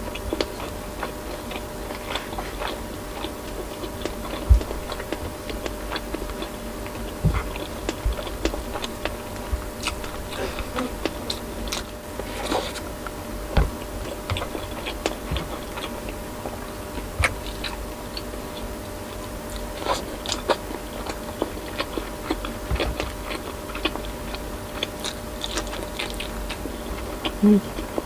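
Close-up eating sounds: chewing, wet mouth clicks and lip smacks, with some crunching, irregular and close to the microphone, over a faint steady hum.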